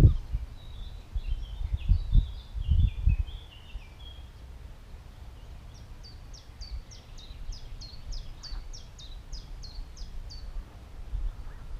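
Small songbirds singing: jumbled twittering in the first few seconds, then one bird repeating a short falling note about three times a second for some five seconds. Low rumbles of wind on the microphone come and go in the first three seconds.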